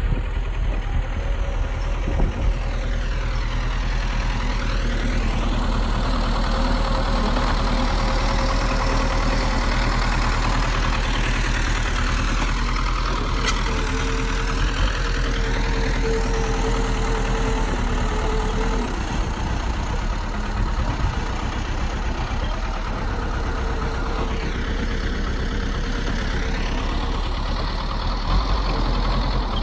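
Bulldozer's diesel engine running steadily with a continuous drone and a held whine over the low hum.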